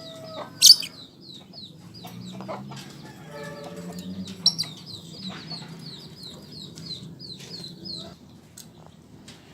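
Lovebird chattering in a fast run of short high chirps, about four or five a second, broken by two sharp, loud shrill calls, one just under a second in and one near the middle.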